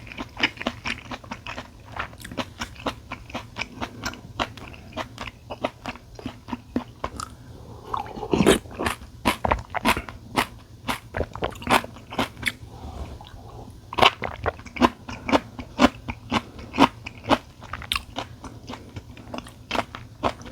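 A person chewing and biting food close to the microphone: a steady run of crunchy, wet clicks, a few each second, with a louder mouthful about eight seconds in.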